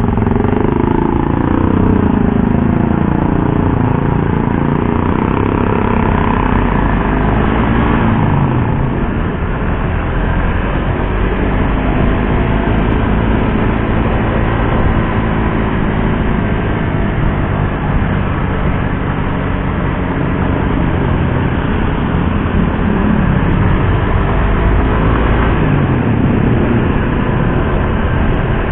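Suzuki GSX-R150's single-cylinder four-stroke engine running on the road. The engine note drops in pitch over the first few seconds, then rises and falls with the throttle, with more dips around a third of the way in and near the end.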